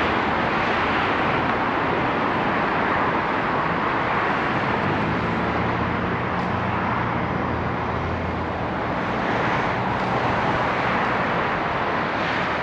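Street traffic noise: a steady wash of passing cars, with one vehicle's engine hum standing out from about five to nine seconds in.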